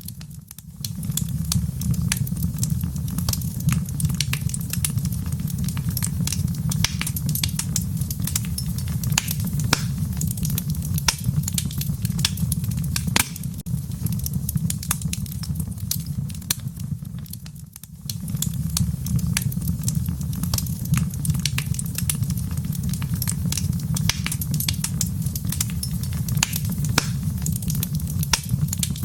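Fireplace fire crackling, with a constant low rumble under a dense stream of sharp pops and snaps. The sound briefly dips and swells back twice, about half a second in and at about 18 seconds.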